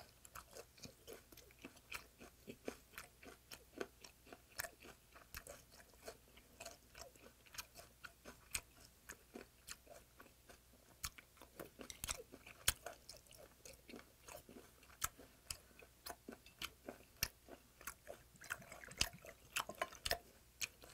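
Close-miked chewing of raw yellow stingray salad, with many sharp crunches as the still-firm cartilage bones are bitten through. Near the end, soju is poured from a bottle into a shot glass.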